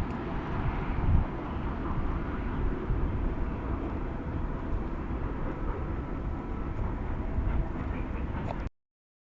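Manifest freight train rolling past with a steady low rumble and a few faint steady high tones; the sound cuts off suddenly near the end.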